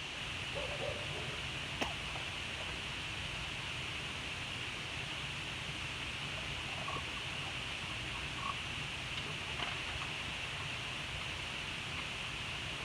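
Steady outdoor background hiss with a low rumble, broken by one sharp click about two seconds in and a few faint short chirps.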